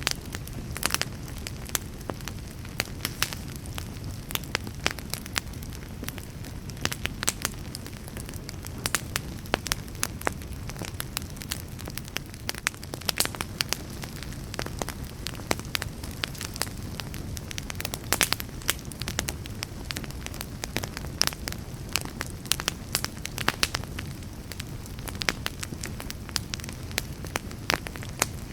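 Wood fire burning steadily: a low rumble of flames with frequent irregular crackles and pops.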